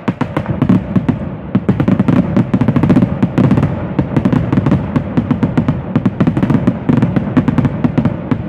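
Dense fireworks barrage: a continuous rapid run of bangs and booms, many a second, with no let-up.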